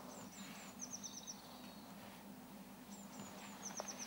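Faint songbird singing in the background: a short phrase of quick, high, falling notes, heard twice about three seconds apart, over a faint steady low hum.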